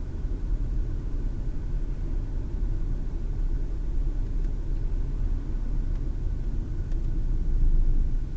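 Car driving, a steady low road and engine rumble heard from inside the cabin through a dash cam's microphone, swelling briefly near the end.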